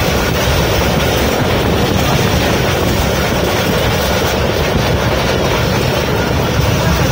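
A moving passenger train heard from inside the carriage at an open window: a steady, loud rumble of the wheels on the rails mixed with wind rushing in.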